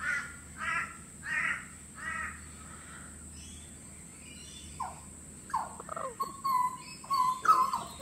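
A crow caws four times in a steady series, then a butcherbird sings a run of clear, fluted whistles that slide in pitch, some notes held briefly.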